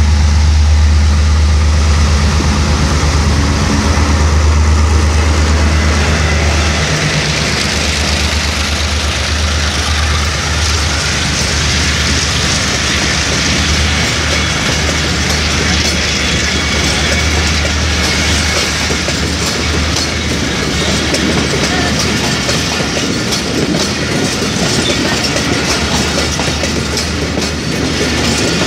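A passenger train hauled by a diesel locomotive passes close by at speed. For about the first seven seconds the locomotive's engine drone is loud as it goes by. Then comes the steady rush of the coaches, with the rapid clickety-clack of their wheels over the rail joints.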